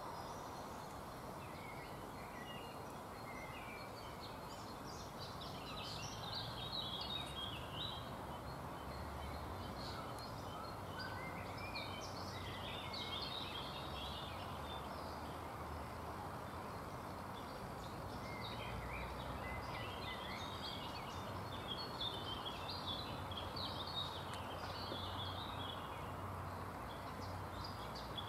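Songbirds chirping and singing in scattered bursts over a steady outdoor background hiss.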